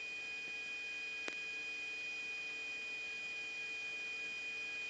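Steady electrical hum and high whine of an air traffic control radio recording between transmissions, over faint hiss, with a single faint click about a second in.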